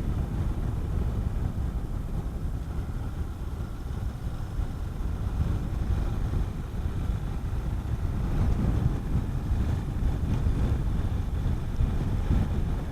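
Honda CB400SS single-cylinder motorcycle engine running under way, mixed with wind rushing over the helmet microphone; the engine gets a little louder about eight seconds in.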